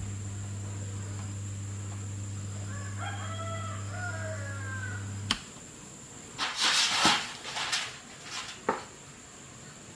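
A rooster crows faintly over a steady electrical hum. The hum cuts off with a click about five seconds in, and a few seconds of loud rustling and knocking follow.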